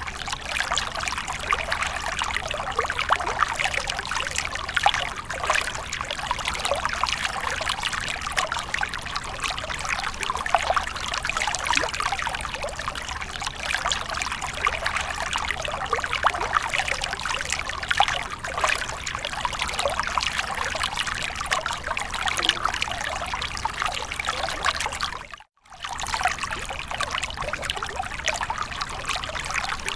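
Water splashing and trickling without a break, a dense patter of many small splashes. It cuts to silence for a moment about 25 seconds in, then carries on.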